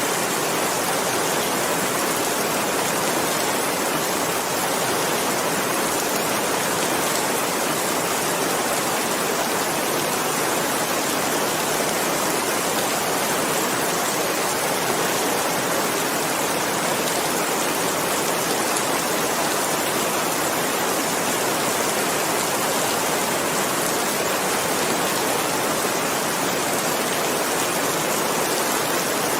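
Steady rain falling, an even hiss with faint scattered drop ticks, without a break.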